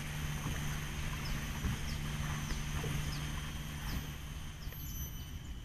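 A bird repeats a short, high, falling chirp about every half second to second over a steady low engine hum, which eases off near the end.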